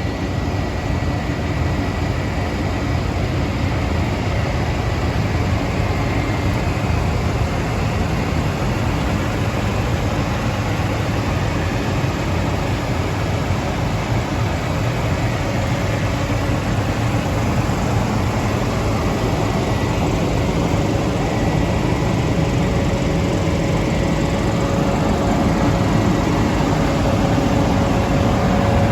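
New Holland CR9.80 combine harvester running steadily, a low engine hum with a few faint steady tones, growing a little louder near the end.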